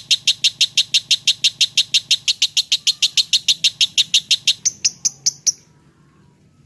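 Lovebird singing a long, fast run of sharp repeated chirps, about eight a second, the rapid churning 'ngocok' song; the last few chirps are higher and shorter before it stops near the end.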